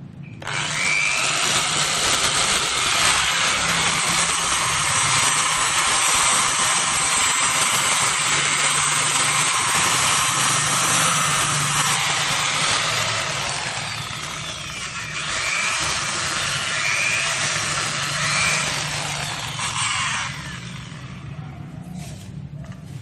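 Handheld power tool, used for sanding or polishing, working a powder-coated surface. It starts about half a second in, runs steadily, eases slightly around the middle and stops about three seconds before the end. A low steady hum runs beneath it.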